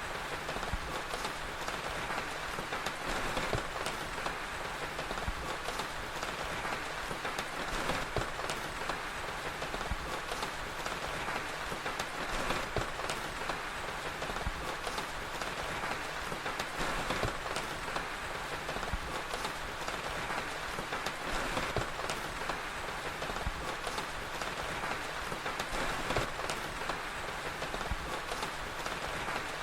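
Steady rain with a crackling fire: an even hiss dotted with frequent small clicks and pops.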